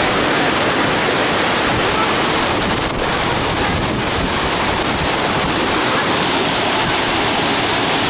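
Steady roar of rushing, falling water, even and unbroken.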